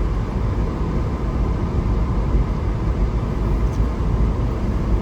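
Steady car road noise heard from inside the cabin while driving: a low, even rumble of engine and tyres.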